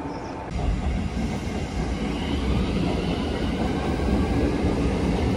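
Limited express Hashidate train pulling in alongside the platform: a steady low rumble of wheels and running gear, with a faint high whine from about two seconds in.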